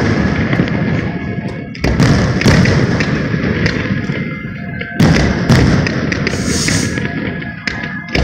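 Aerial firework shells bursting in a run of sharp bangs, the loudest about two and five seconds in, each followed by a long rumbling decay.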